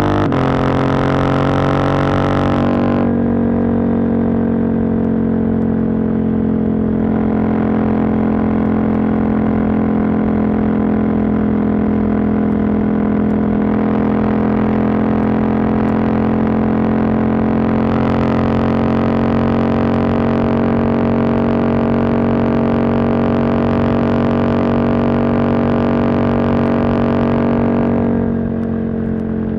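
Husqvarna Norden 901's parallel-twin engine, with its catalytic converter removed, running under steady cruising throttle with a constant droning exhaust note. The sound thins out about three seconds in. Near the end the throttle rolls off and the engine note falls and quietens.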